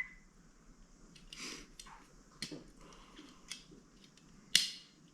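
Light scattered clicks and clatters of a freshly reassembled Stromberg carburettor being handled on the bench, with one sharp metallic click about four and a half seconds in.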